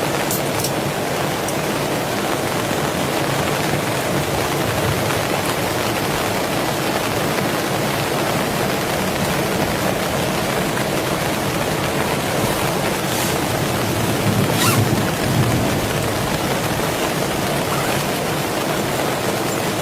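Heavy rain falling steadily, with a few sharp drop taps standing out, twice near the start and twice late on.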